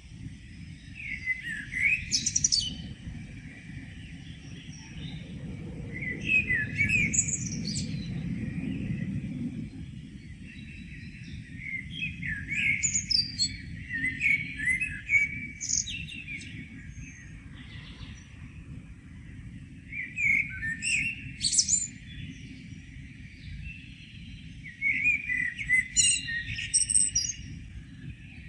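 Songbirds singing in the morning: short phrases of chirps and trills about two seconds long, repeated roughly every five seconds, over a steady low background rumble.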